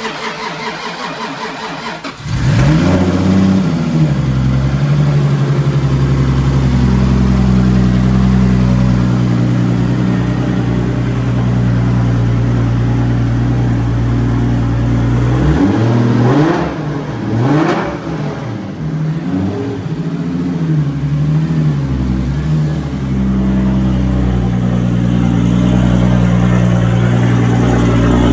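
Lexus SC300's turbocharged engine running through a 4-inch straight-pipe exhaust, hella loud. It starts at a lower idle, jumps to raised revs about two seconds in and holds there, gives a few quick revs up and down past the halfway point, then settles into a steady hold again.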